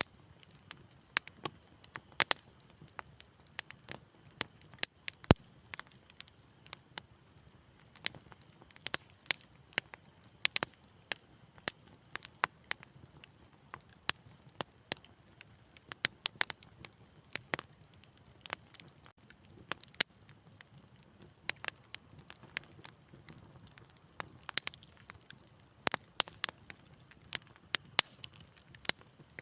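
Wood fire crackling: irregular sharp pops and snaps, several a second at times, over a low steady burning rumble, with one louder pop about five seconds in.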